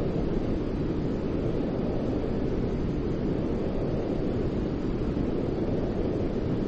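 Steady, unchanging white-noise sleep sound, a deep rumbling hiss weighted toward the low end with little treble.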